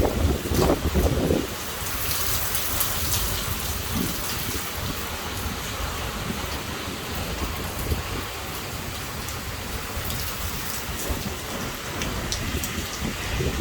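Heavy thunderstorm rain falling steadily, with a loud low rumble during the first second and a half and scattered sharp drop ticks.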